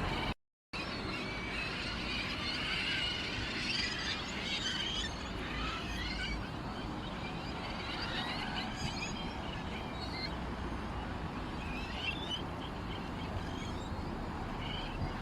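Small songbirds chirping and twittering together, many short overlapping calls over a steady low background hum, with a brief cut to silence about half a second in.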